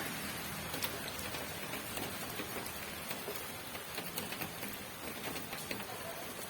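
Rain falling steadily, a continuous hiss with many sharp, irregular ticks of individual drops striking a surface.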